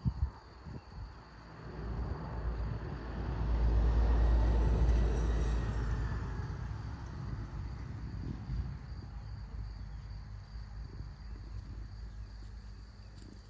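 A vehicle passing by: its noise swells to a peak about four or five seconds in, then slowly fades, while crickets chirp steadily.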